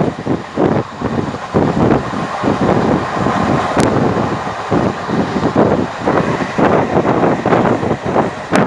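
Passenger train running at speed: wheels and coach rattling with irregular knocks, and wind buffeting the microphone.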